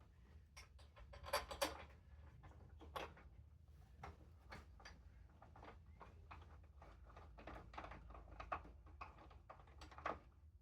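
Faint, irregular light clicks and taps of small metal bolts and hand tools being handled while the headlight-casing bolts are started, with a cluster of louder clicks about a second and a half in.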